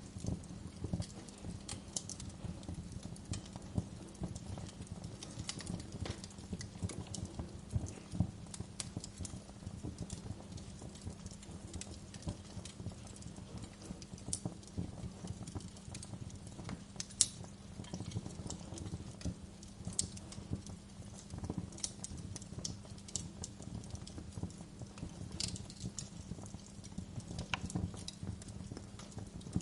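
Wood fire crackling in a fireplace: irregular small pops and snaps, one sharper pop about 17 seconds in, over a steady low rumble and a soft hiss of gentle rain.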